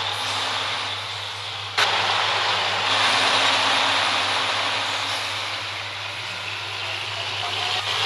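Road vehicle noise, steady engine hum and rushing tyre and road noise from a truck, with a sharp click about two seconds in.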